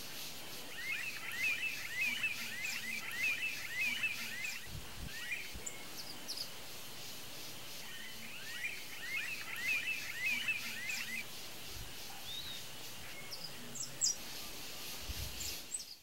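Wild bird calling: two bouts of rapid, chattering high notes, each lasting about three seconds, the first about a second in and the second just past the middle, with a few single chirps between, over a steady high outdoor hiss.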